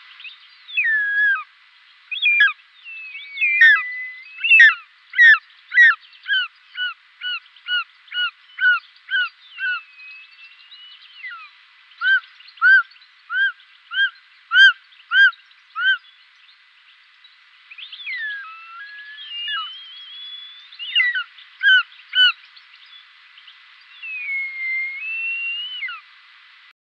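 Songbirds singing and calling: slurred whistles and chirps, with two runs of a repeated two-part note at about two a second, the first early on and the second near the middle.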